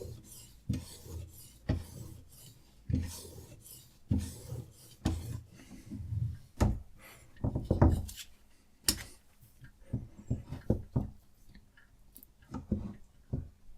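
Knife being worked on a Hapstone RS guided sharpener: irregular rasping strokes of abrasive on steel mixed with light knocks, roughly one a second.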